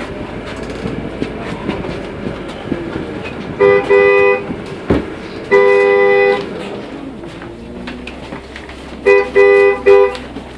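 A vehicle horn sounds a steady chord of two low notes in blasts: two longer blasts in the middle, then three quick short ones near the end, over a constant rumble of travel noise. A single sharp knock falls between the first two blasts.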